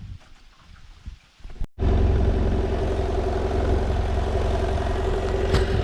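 Faint patter at first, then, from about two seconds in, a BMW F800GS motorcycle's parallel-twin engine idling steadily.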